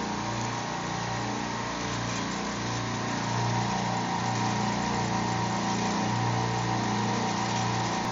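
Refrigeration rack compressors running with a steady machine hum.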